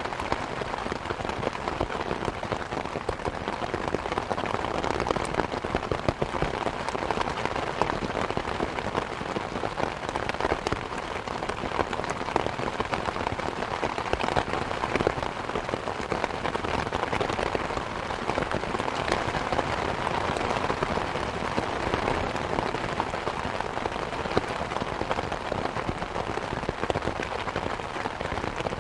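Steady rain mixed with the crackling of a wood fire, with many small pops and ticks scattered through a constant hiss.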